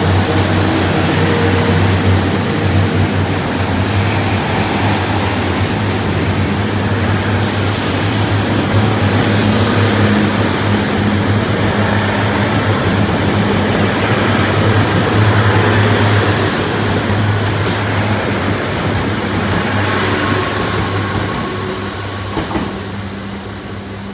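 DR3000 diesel multiple unit running out of the station under power, a steady low engine drone under the rumble and hiss of wheels on rail, with several swells of hiss, fading away over the last few seconds.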